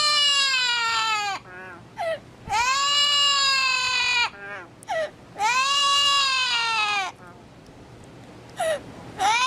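A pet parrot giving three long, loud wailing cries that sound like a crying baby, each about a second and a half, with short falling calls between them.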